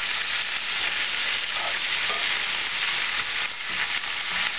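Sliced cabbage frying in bacon grease in a cast-iron skillet, a steady sizzle, while a spatula turns the cabbage and scrapes it off the bottom of the pan.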